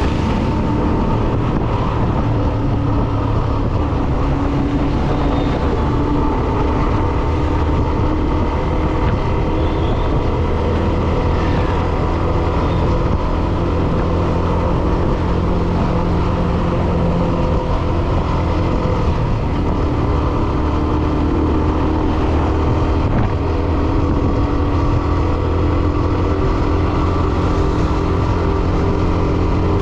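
Hero Xtreme 125R's single-cylinder engine running steadily while the motorcycle is ridden at a constant pace, with road and wind noise.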